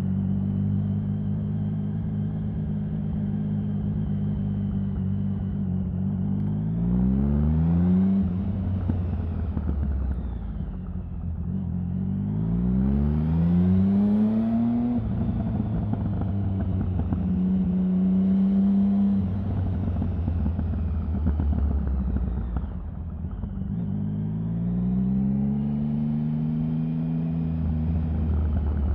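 Triumph Sprint 1050's three-cylinder engine running under way. Its pitch rises three times as it accelerates and drops back off in between.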